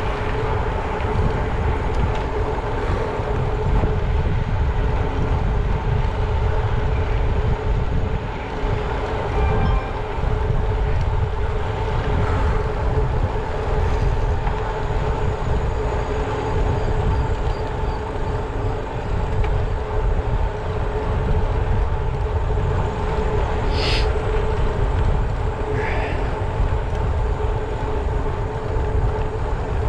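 Wind rushing over the microphone and tyre noise from a bicycle being ridden along a road, with a steady hum throughout. Twice near the end there is a brief sharp high sound.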